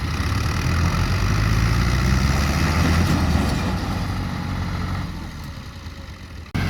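Tractor engine running with a low rumble. It is loudest early on, fades over the last couple of seconds, then cuts off suddenly near the end.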